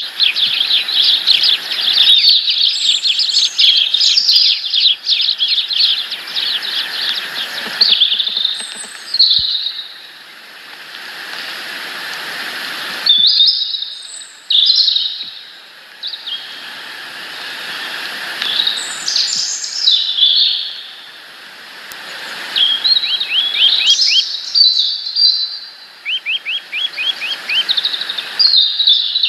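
Small birds chirping and twittering close to the microphone inside a nest box: a dense run of rapid high chirps, then scattered groups of calls with short lulls, and quick chirp series again near the end.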